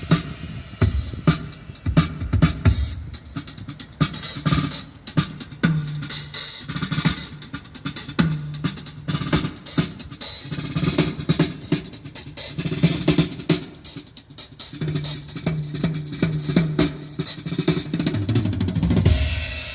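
Drum-heavy music with kick, snare and hi-hat over a repeating bass line, played back through an upgraded car audio system with a Blaupunkt DSP for a sound check.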